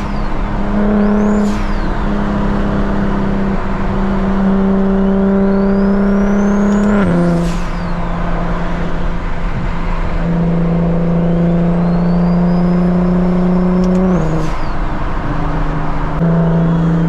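Single-turbo BMW N54 inline-six pulling on the road, with a turbo whistle rising for a few seconds at a time. The engine note drops twice, about seven and fourteen seconds in, as it changes gear, and each drop comes with a brief hiss of released boost.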